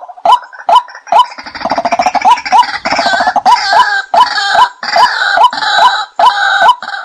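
A short bird call repeated evenly about twice a second. From about a second and a half in, a rougher, busier bird calling and clucking overlaps it until near the end.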